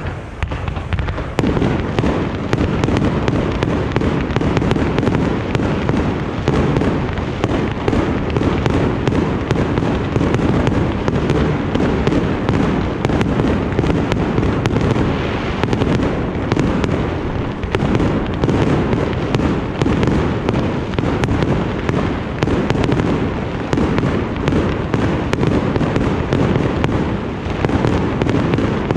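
Fireworks going off in a dense, continuous barrage: a loud bang at the start, then overlapping bangs and crackling bursts with no pause.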